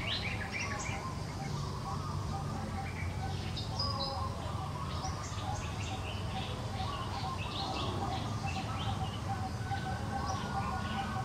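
Small birds chirping, with many short, quick high calls scattered throughout over a steady low background hum.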